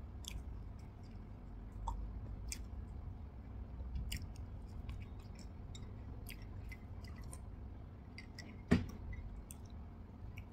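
Close-up chewing of a soft cream-topped vanilla sponge cake, with wet, sticky mouth clicks scattered throughout. A single sharper knock, the loudest sound, comes near the end.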